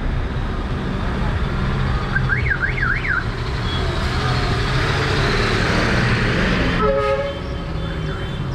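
City street traffic: a steady rumble of passing vehicles. About two seconds in, a short electronic warble swings up and down three times, like a car alarm chirp. Near the end there is a brief tone with several pitches, like a vehicle horn.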